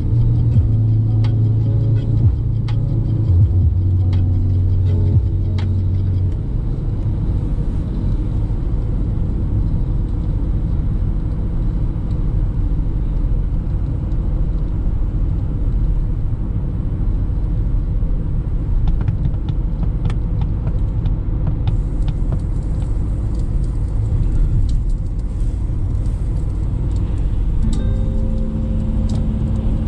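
Peugeot Expert 1.6 turbo diesel van driving on the road: a steady low rumble of engine and tyres. The engine's hum stands out for about the first six seconds, then settles into an even road rumble.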